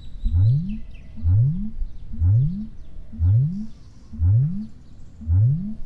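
A man snoring: a short, low snore that rises in pitch, repeating about once a second.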